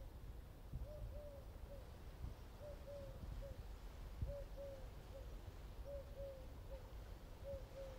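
A bird calling: a low three-note phrase, two longer notes and a shorter one, repeated about every second and a half, over a faint low rumble. There is a brief low bump about four seconds in.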